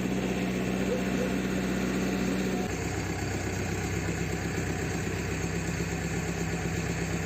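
Diesel engine of a JCB 3CX backhoe loader running steadily near idle. Its note drops to a lower pitch about three seconds in.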